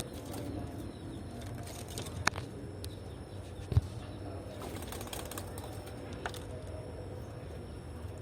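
Spotted dove cooing faintly over a steady low hum, with two sharp knocks about a second and a half apart near the middle.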